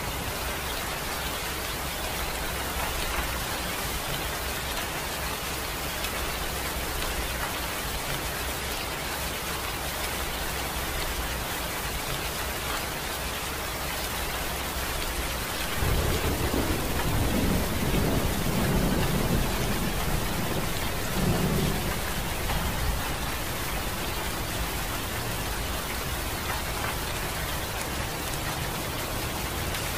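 Steady rain hissing. A low rumble of thunder comes in about halfway through and lasts several seconds.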